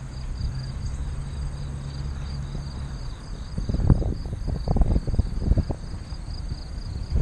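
Crickets chirping in quick, even pulses throughout. Underneath, a low steady hum stops about three seconds in, followed by irregular low rumbling on the microphone.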